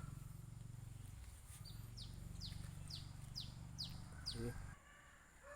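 A bird giving a run of about seven short, high chirps, each sliding downward, two to three a second, over a faint low hum that stops a little before the end.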